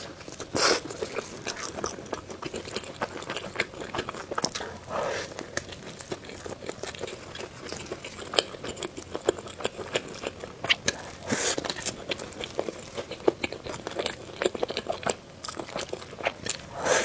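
Close-miked eating: a person bites and chews crunchy food, with a steady run of wet clicks and crackles and a few louder bites about half a second, five seconds and eleven seconds in.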